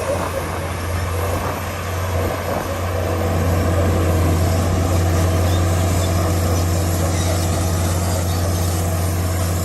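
Komatsu D65PX bulldozer's diesel engine running steadily with a deep hum, growing a little louder about three seconds in.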